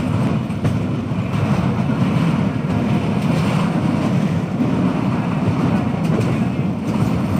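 Passenger train running between stations: a steady low rumble of the coach on the track, with wind rushing over the microphone.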